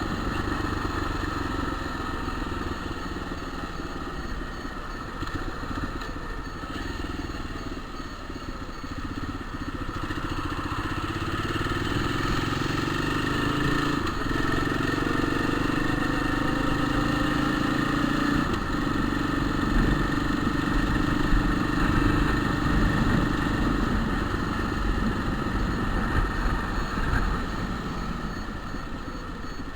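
Single-cylinder-sounding motorcycle engine running steadily, its pitch climbing slowly from about a quarter of the way in, holding, then falling back near the end.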